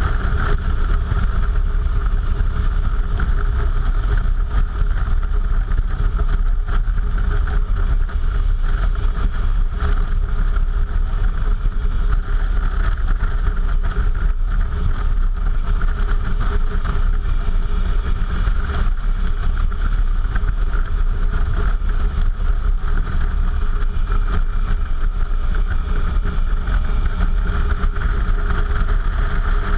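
Suzuki V-Strom motorcycle under way at a steady speed, its engine running evenly with no change in pitch.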